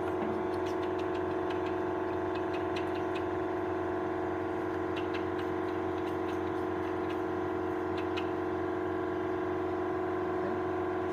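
Steady mechanical hum made of several fixed tones, with a few faint clicks of small metal parts being handled.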